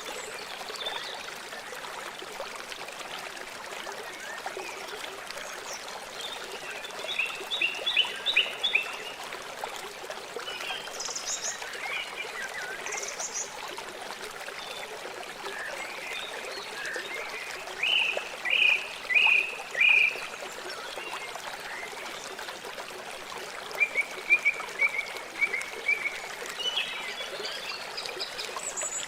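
River water flowing steadily, with birds calling over it in several runs of short chirps.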